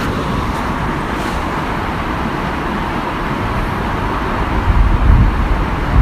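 Waterfall, water rushing in a steady even roar. From a little after two-thirds through, a louder, irregular low rumble of wind buffeting the microphone joins it.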